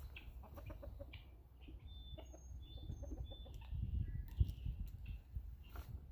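Chickens clucking, with wind rumbling on the microphone and a few light clicks and a thump a little past the middle.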